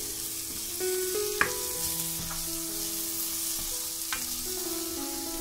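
Onion-tomato masala with chopped coriander sizzling in a frying pan while a spatula stirs it: a steady frying hiss, with two sharp taps of the spatula on the pan, about a second and a half in and again near four seconds.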